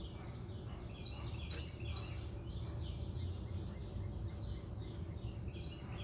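Small birds chirping in quick short notes over and over, over a steady low rumble.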